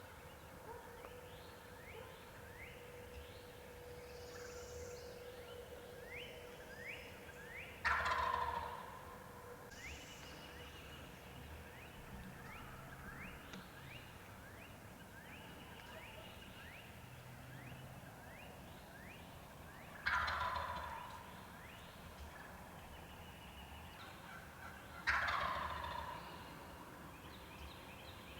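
Wild turkey gobbler gobbling three times, loud, about eight, twenty and twenty-five seconds in. Faint short rising chirps sound throughout between the gobbles.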